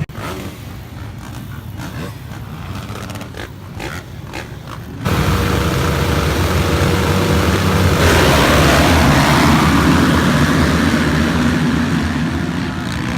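Motocross bikes racing on the track. Their engines become suddenly much louder about five seconds in, and a broad rushing noise builds on top from about eight seconds.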